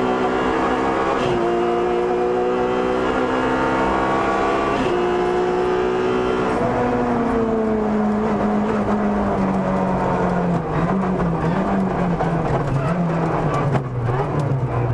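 Opel Kadett E GSi 16V rally car's 2.0-litre 16-valve four-cylinder engine, heard from inside the cabin, pulling hard under acceleration. Its pitch climbs with two short breaks for gear changes, then falls as the driver lifts off and works down the gears, running lower and uneven near the end.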